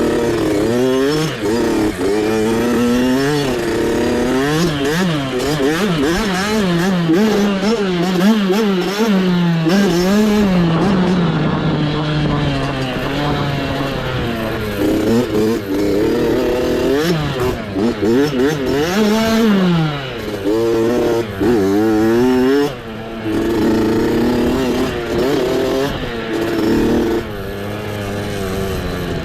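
Mini dirt bike engine revving up and down over and over as it is ridden on an off-road trail. The pitch rises and falls about once a second as the throttle is worked, with a few longer climbs, and it settles into steadier, lower running near the end.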